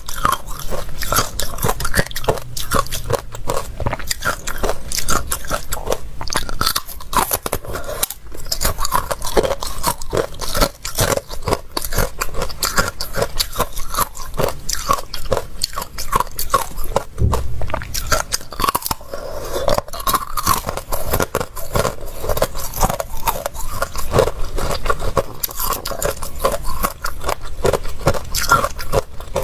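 Close-up crunching and chewing of ice cubes, with rapid, irregular cracks and crackles.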